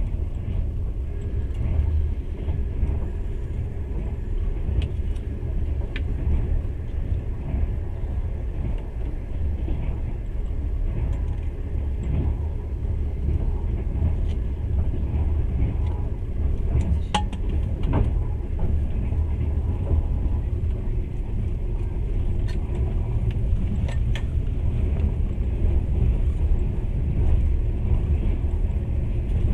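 Passenger train running at speed, heard from inside the carriage: a steady low rumble of wheels on rails, with a few sharp clicks scattered through it, most of them around the middle.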